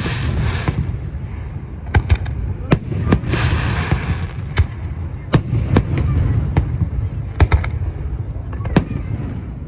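Aerial fireworks bursting: a string of sharp bangs spaced unevenly about every half second to second, with a stretch of crackling about three seconds in.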